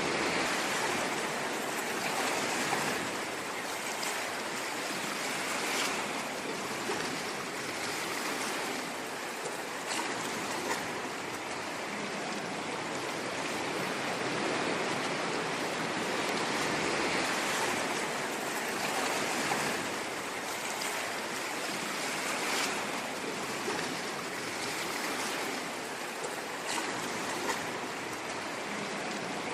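Ocean waves washing in a continuous hiss, swelling and easing gently, with faint crackles of foam.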